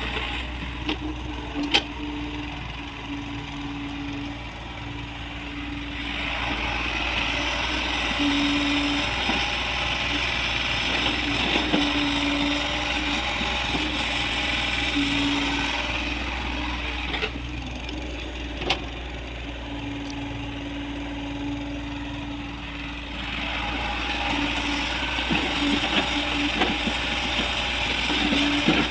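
Hyundai Robex excavator working: diesel engine running steadily, with a whine that comes and goes as the hydraulics work and a few sharp knocks.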